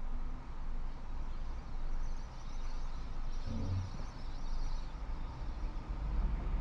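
Steady low rumble of a car's engine and tyres heard from inside the moving car's cabin, with a brief low hum about halfway through.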